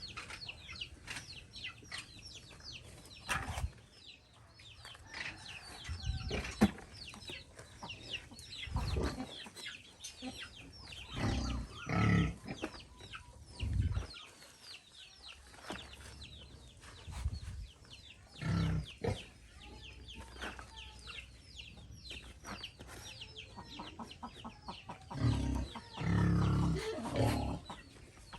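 Farmyard poultry: chickens clucking, with a dense run of short, high chirps throughout and several louder, lower calls at intervals.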